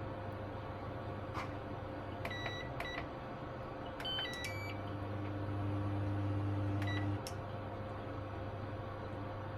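Kitchen appliance control panel beeping: two short beeps, then a quick run of key-press beeps. The appliance then starts with a low mains hum, runs for about three seconds with one more beep, and stops.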